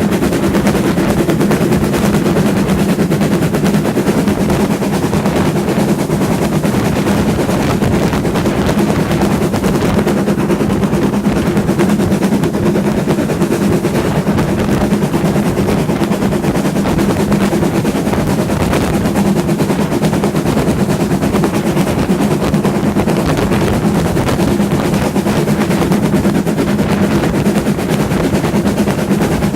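Moving train running steadily, a continuous loud rumble with a fast, dense rattle throughout.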